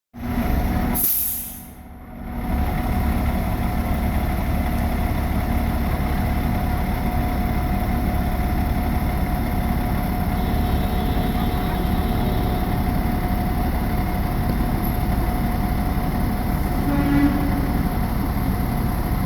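A parked fire engine's diesel engine running steadily, a constant low drone with a steady hum over it. A short high hiss sounds about a second in.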